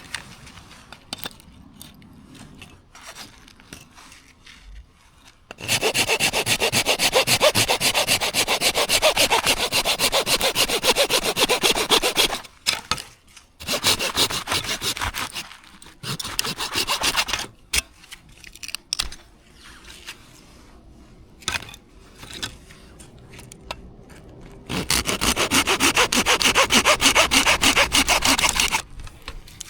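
Hand saw cutting through firewood in quick, regular back-and-forth strokes, in three long runs separated by pauses with light knocks and handling of the wood.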